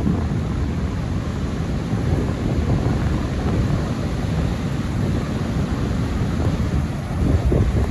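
Strong wind buffeting the microphone in a low, fluttering rumble, with a steady hiss of rain behind it.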